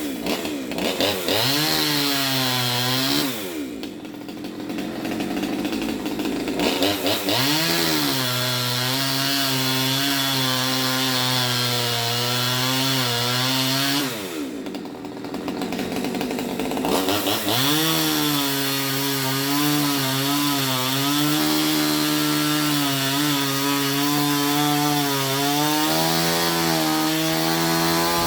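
Petrol chainsaw cutting through a coconut palm trunk at high revs. Twice, about three seconds in and again about fourteen seconds in, the engine drops back to a lower speed for a few seconds, then revs up again and runs steadily under load.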